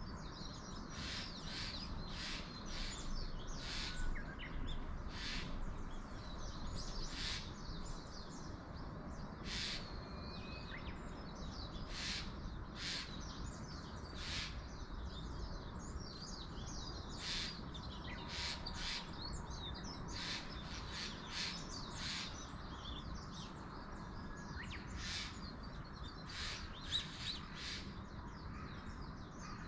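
Wild birds calling in a mountain forest: many short, sharp calls repeating every second or so, over a steady low background rumble.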